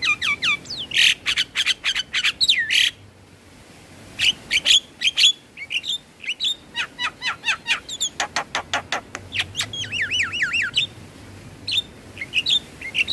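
Javan myna singing: a fast, varied run of harsh chattering notes and gliding whistles, a short lull about three seconds in, then quick strings of sharp notes and a series of repeated falling whistles.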